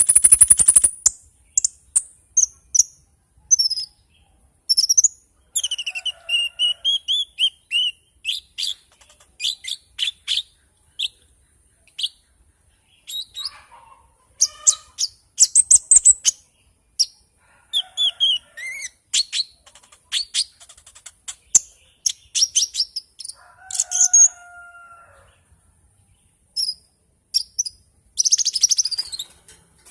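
A konin songbird singing in full voice: quick phrases of high chirps, trills and gliding whistles, broken by short pauses. A denser, scratchy flurry of song comes near the end.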